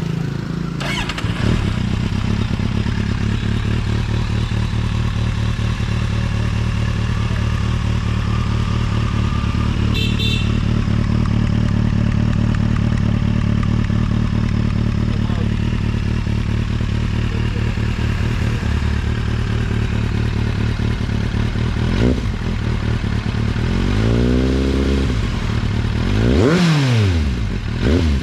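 2015 Kawasaki Z800's inline-four engine through an SC Project oval carbon slip-on exhaust, idling steadily once warmed up. In the last few seconds it is revved in several quick throttle blips, each rising and falling in pitch.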